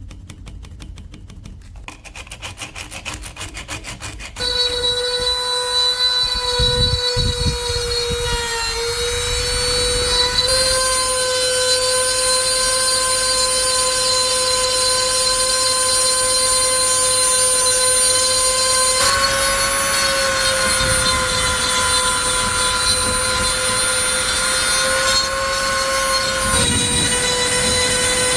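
High-speed electric power tool running steadily with a high whine, after a few seconds of rapid clicking; the pitch dips and shifts slightly a few times as the tool is loaded against the metal.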